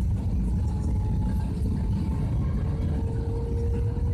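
Steady low rumble of a vehicle in motion, heard from inside, with faint thin steady tones.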